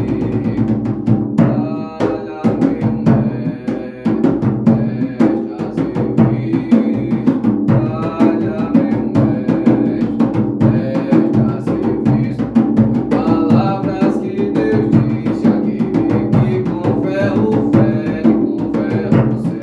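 An atabaque hand drum is played by hand in a steady, driving ponto rhythm, with many strokes a second.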